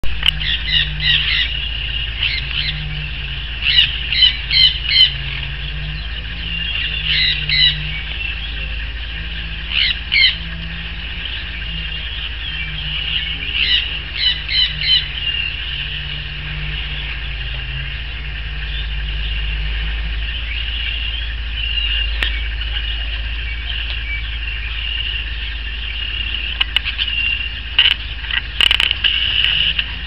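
Bird calls in quick clusters of three or four short notes every few seconds, thinning out after about fifteen seconds, over a steady hum, with a few sharp clicks near the end.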